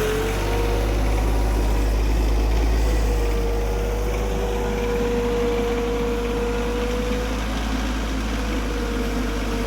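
Engine running steadily, with a low rumble and a held whine that wavers slightly in pitch.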